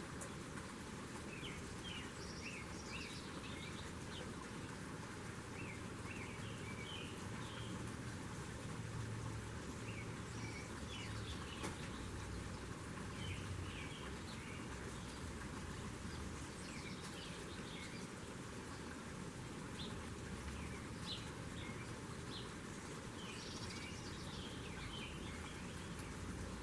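Small birds chirping in short, scattered calls throughout, over a steady outdoor background hiss.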